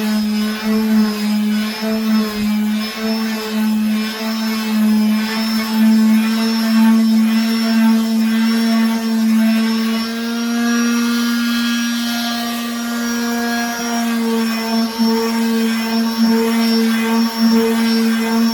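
Electric sander running continuously on a wooden tabletop with fine 400-grit paper, a steady motor hum. Its pitch rises slightly for a few seconds around the middle, then settles back.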